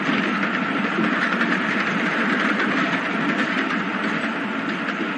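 Sound effect of a passenger train running along the rails: a steady running noise.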